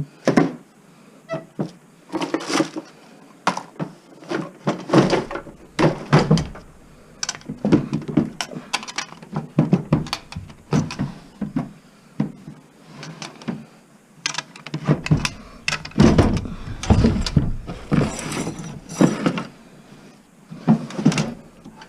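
Rummaging through cluttered household contents: a string of irregular knocks, thunks and clatters as objects are handled and moved about. The knocks come thicker and heavier, with a low rumble, about two-thirds of the way through.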